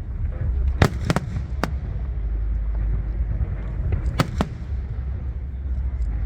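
Fireworks shells bursting: a quick cluster of four sharp bangs in the first second and a half, then two more about four seconds in, over a steady low rumble.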